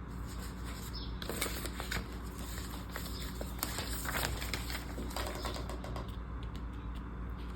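Rustling and light clicks and taps from planner supplies being handled, with a cluster of sharper clicks and rustles in the middle.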